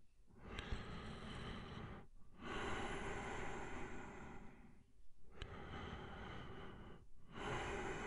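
Slow, deep human breathing: long airy breaths of about two seconds each, in and out in turn, with a brief pause between them.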